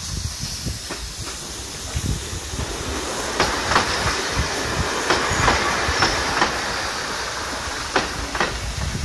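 A train passing close by, its wheels clicking over rail joints over a hissing rumble. It builds to its loudest in the middle and eases off near the end.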